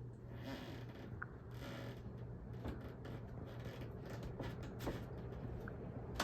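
Harbor Breeze Galileo ceiling fan running on high speed: a steady low hum with scattered faint creaks and clicks.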